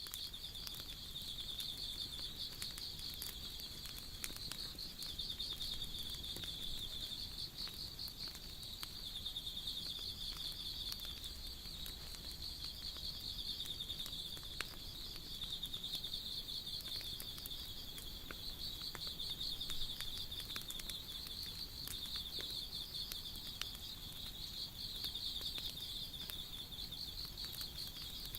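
Wood fire crackling with scattered sharp pops, over a continuous high-pitched trill of insects.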